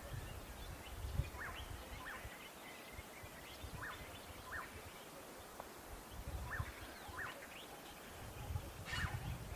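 A bird calling in short rising notes given in pairs, one pair about every two and a half seconds, with other faint bird calls around it over a low rumble that comes and goes. A sharper, higher call sounds near the end.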